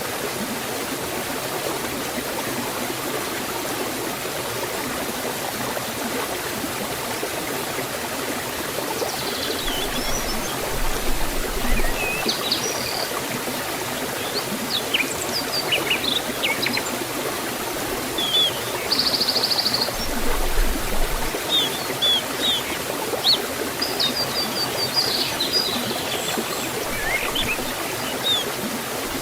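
Waterfall in a forest, water rushing steadily. From about a third of the way in, small birds chirp in short high calls, with one brief buzzy trill.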